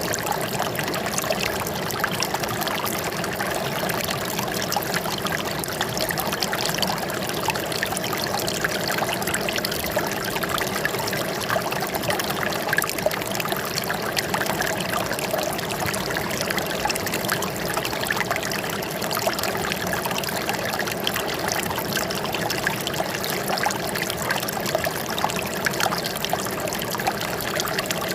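Running water trickling and babbling steadily, like a small stream over stones.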